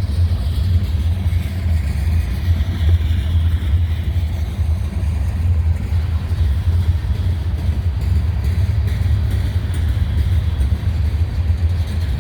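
A train rolling past with a steady, loud low rumble, and a faint wavering higher whine above it.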